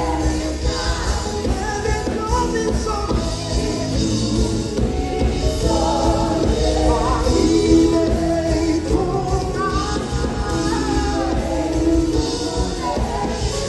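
Music: a band with singers performing a song, sung melody over a steady drum and bass beat.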